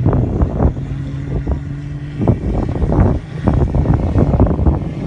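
Off-road 4x4 engine running with a steady low hum, broken by many irregular short knocks and bangs through most of the stretch.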